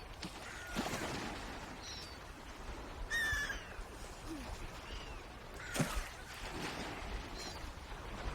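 Swans calling: a handful of short, separate honking calls over a steady wash of water noise, the loudest about three seconds in.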